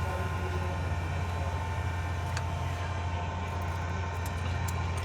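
Toyota GLi's engine running at a steady idle, with a few faint ticks over the hum, while its valve tappet clearances are being set.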